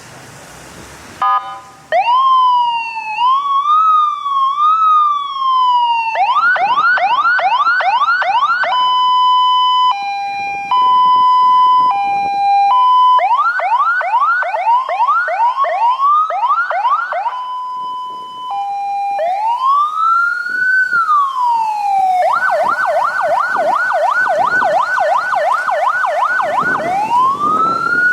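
Fire truck's electronic siren switched through its tones: after a short chirp about a second in, it plays a wavering sweep, then a fast yelp, a two-tone hi-lo, the fast yelp again, a brief hi-lo, a slow wail, the fast yelp once more, and a rising wail near the end.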